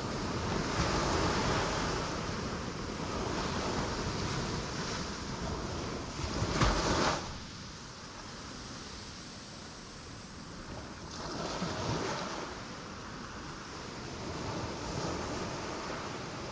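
Ocean waves breaking on rocks: a continuous wash of surf that swells and ebbs, with the loudest crash about halfway through, then a quieter lull before the next wave surges in.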